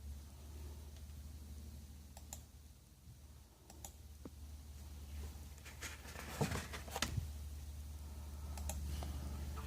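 Low steady hum with scattered sharp clicks, a few of them close together about six to seven seconds in.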